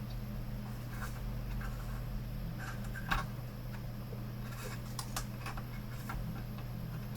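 Scattered light clicks and taps of a monitor's main board and plastic housing being handled and fitted into place, over a steady low hum.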